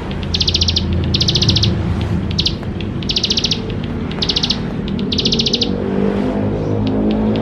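Plain prinia (ciblek sawah) singing: a series of short, high, buzzy trills, each under half a second, repeated roughly once a second, over a low steady hum.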